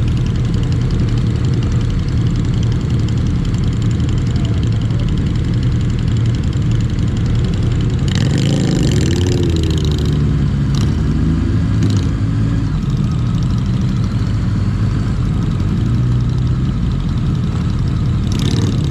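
Motorcycle engine running steadily at low revs with a rushing hiss over it. About eight seconds in, a louder passage with a shifting engine pitch comes and goes over about two seconds.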